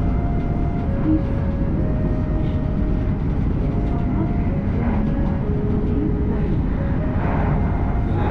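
Running noise of an E7/W7-series Shinkansen heard at the carriage door: a steady deep rumble, with faint whining tones that step up and down in pitch every second or so.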